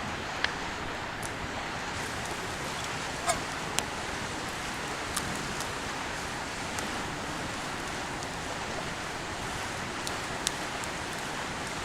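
Steady rushing of a flowing river, with a few sharp clicks scattered through it.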